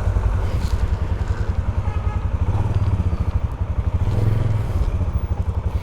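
Polaris Sportsman 570 ATV's single-cylinder engine idling with a steady low chug. It picks up slightly twice as the quad is put into reverse and backed up.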